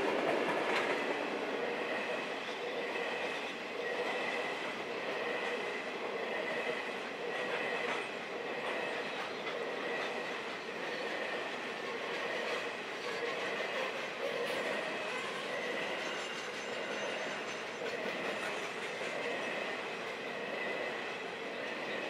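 Grain train's hopper wagons rolling past, a continuous clatter of steel wheels on the rails with thin steady squealing tones from the wheels.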